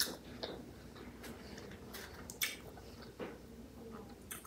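A person chewing a mouthful of food, with faint, scattered wet smacks and clicks of the mouth.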